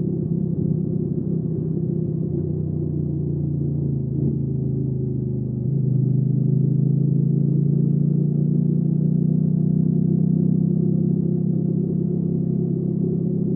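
Hyosung GV300S Aquila's V-twin engine running under way. The note changes about two seconds in, then gets louder about halfway through, its pitch slowly rising as the bike accelerates.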